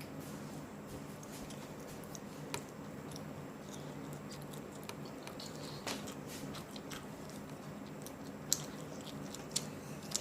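A person chewing and biting hot and spicy fried chicken close to the microphone: wet mouth clicks, smacks and occasional crunches scattered through, over a steady low hum.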